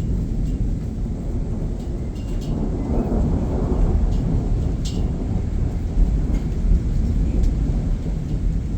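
Thunder rumbling low and continuously, swelling about three seconds in, with a few faint raindrop ticks.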